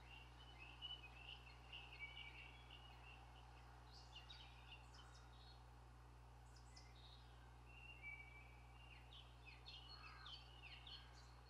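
Faint birdsong: short, high chirping phrases coming and going, over a steady low hum.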